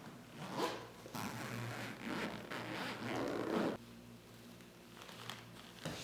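A zipper being pulled in several quick rasping strokes, which stop abruptly about four seconds in.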